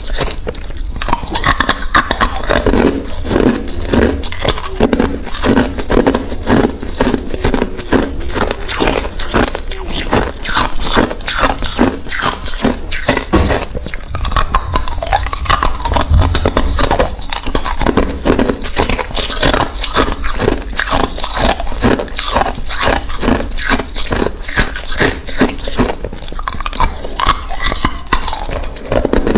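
A person biting and chewing hard ice cubes: a steady run of sharp crunches, several a second.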